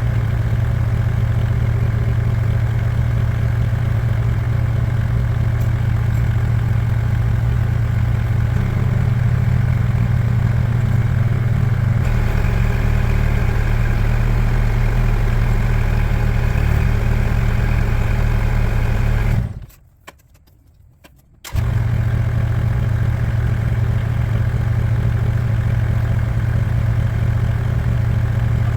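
An engine running steadily at an even speed, its tone shifting slightly a couple of times, with a drop to near quiet for about two seconds around two-thirds of the way through.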